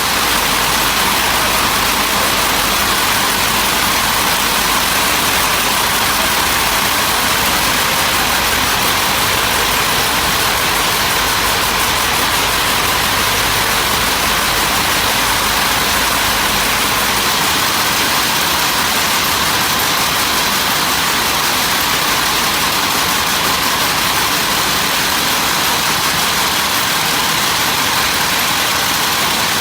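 Steady machinery noise: an even, continuous din with no distinct strokes or tones.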